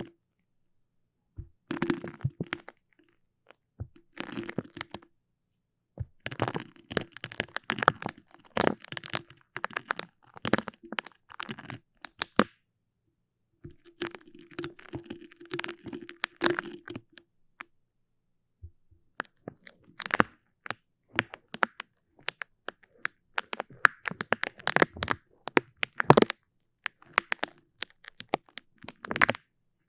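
Sticky ASMR sounds: a tacky surface being pressed and pulled apart, giving sharp crackling, peeling clicks in bursts of one to several seconds with short silences between.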